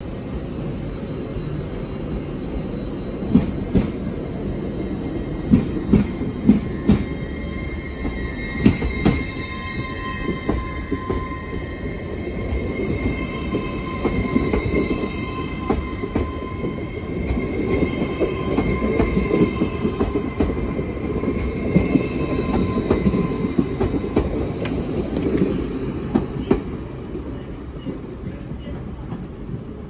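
TransPennine Express Class 802 bi-mode train (802204) pulling away and running past close by. There is a steady rumble of the carriages, with sharp clicks and clunks of the wheels over rail joints in the first third. A high steady whine runs through the middle, and the sound falls away near the end as the rear of the train draws off.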